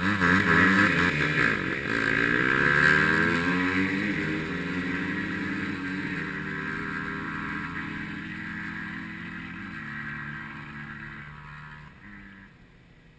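Several dirt bikes launching together and accelerating hard, their engine notes climbing and dropping back again and again as they shift up through the gears. The engines then fade steadily as the bikes pull away, and the sound has mostly died down near the end.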